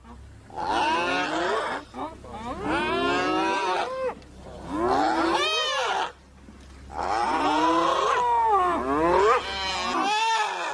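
Spotted hyenas calling: a run of about five long, wavering calls, each sliding up and down in pitch, with short breaks between them.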